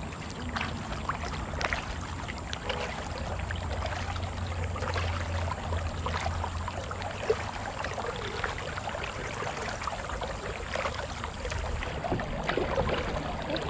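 Water trickling, dripping and splashing around a kayak as it is paddled, many small drips and splashes over a steady wash. A single sharp knock stands out about seven seconds in.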